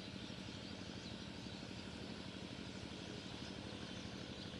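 A small engine running steadily, an even drone with a rapid low pulsing.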